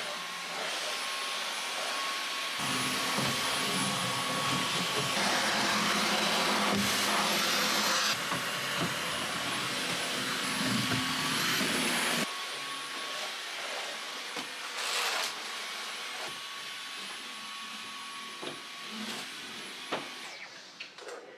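Dyson cordless stick vacuum running, with a steady high-pitched motor whine. From about three to twelve seconds in it is louder and fuller while the floor head works the surface. It then runs lighter and switches off near the end.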